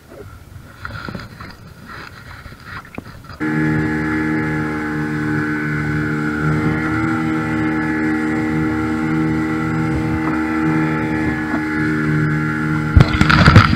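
A few faint knocks, then about three seconds in a boat engine cuts in abruptly and runs at a steady, even pitch. A couple of loud thumps come near the end.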